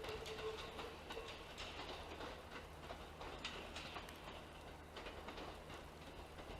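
Train running on the line, fading, with its wheels clicking irregularly over the rails and a steady whine that dies away about a second in.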